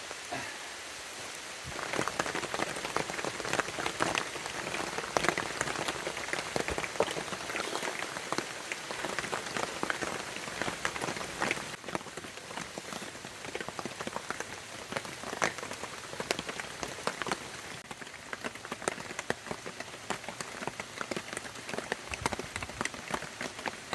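Rain falling, a steady hiss with many close, sharp drops striking a surface, turning heavier about two seconds in.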